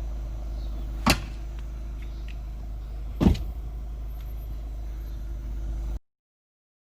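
Steady low hum with two sharp pops about two seconds apart, the second louder; then the sound cuts off abruptly.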